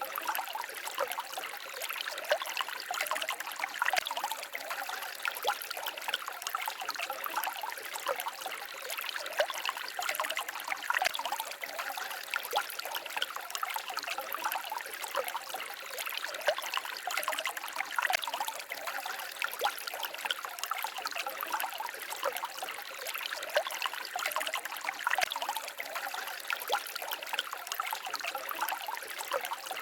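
Small forest stream trickling and babbling over stones, with many small splashes and a steady, fairly high-pitched rush of water.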